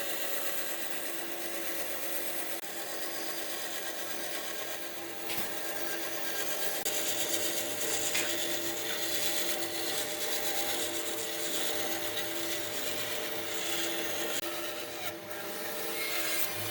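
A power tool running against wood: a steady motor tone under a continuous hiss of wood being abraded or cut.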